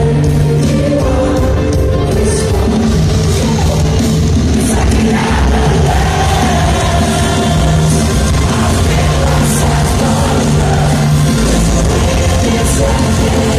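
Rock band playing loud live, with heavy guitars, drums and sung vocals.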